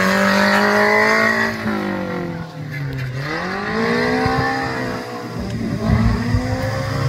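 Off-road 4x4 vehicle engine revving high; the revs drop to a low about three seconds in, then climb and hold high again.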